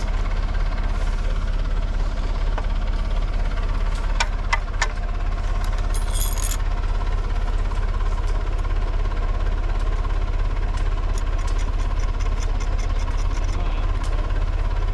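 An engine running steadily at idle, with a few sharp metallic clinks about four seconds in and a brief high-pitched ring a couple of seconds later.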